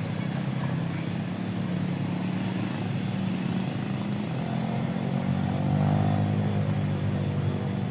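A small engine running steadily, growing louder about six seconds in and easing off again near the end.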